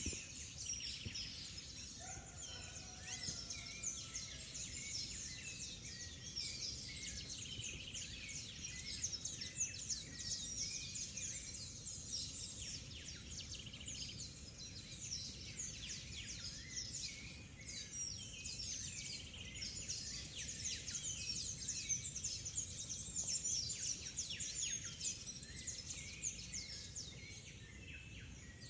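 Dense chorus of many tropical birds chirping, trilling and calling at once, without pause, over a steady low rumble.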